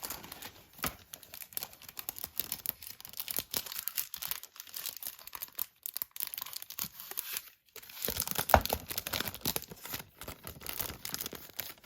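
Hands handling Blu-ray cases and their packaging: steady rustling and crinkling with many small clicks, and a sharper knock about eight and a half seconds in.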